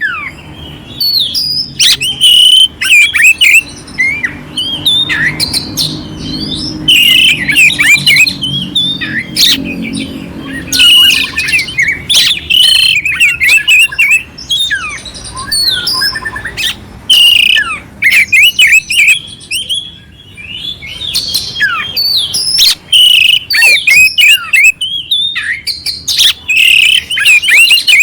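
Oriental magpie-robin (kacer) singing loud, fast phrases of sweeping whistles mixed with harsh, scratchy fill-in notes, broken by short pauses.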